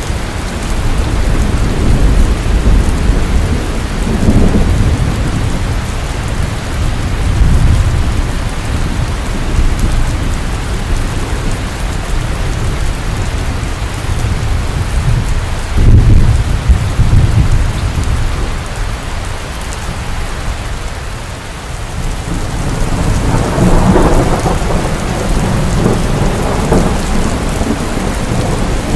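Steady heavy rain with rolling thunder: low rumbles swell several times, strongest about halfway through and again near the end.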